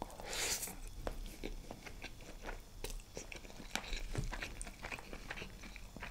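Close-miked chewing of a mouthful of chicken biryani: many small wet mouth clicks and smacks, with a short breathy hiss near the start.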